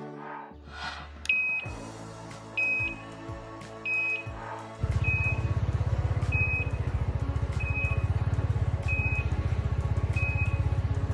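Short high electronic beep repeating steadily, about once a second, over background music that picks up a heavy beat about halfway through.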